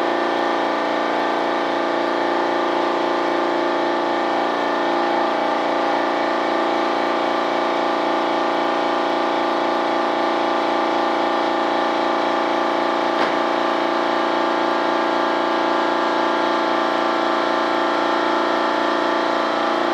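A motor running steadily: a constant hum with many overtones and a faint regular pulse, unchanging throughout. A single short click comes about 13 seconds in.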